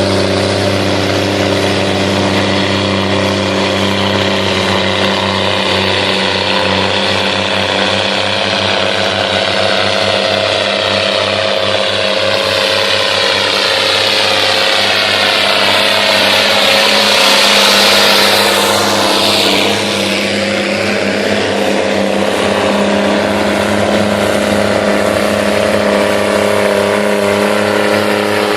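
John Deere 2020 tractor's diesel engine running steadily. Its tone swells and shifts about halfway through, then settles again.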